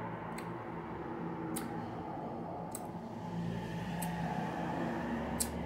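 A person chewing juicy sugared lemon slices close to the microphone, with wet smacking and five sharp mouth clicks about a second apart, over a steady low hum.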